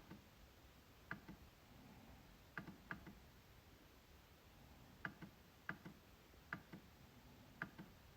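MacBook trackpad being clicked: about nine sharp clicks at irregular intervals, some in quick pairs.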